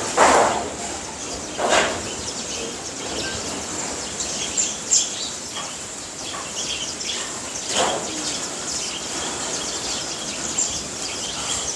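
Small birds chirping over and over with short high calls. Three brief louder swishes cut in: just after the start, near two seconds and near eight seconds.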